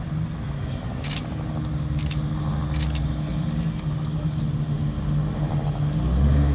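Ferrari Monza SP's V12 engine running at low revs as the car turns slowly, getting gradually louder. Near the end the revs rise and fall twice with a deep rumble.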